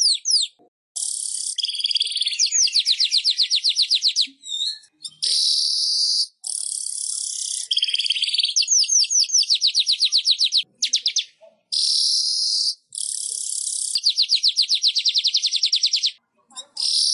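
Manyar (weaver bird) song: repeated high-pitched phrases, each a buzzy hiss running into a fast, even trill of about nine notes a second, with brief pauses between phrases.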